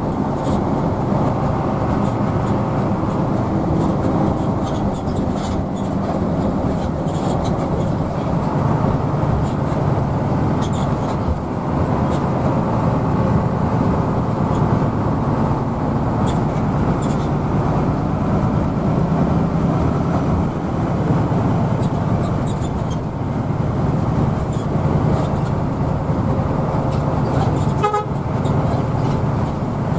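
Hino AK bus's diesel engine running steadily on the road. About 28 seconds in there is a short honk of a vehicle horn.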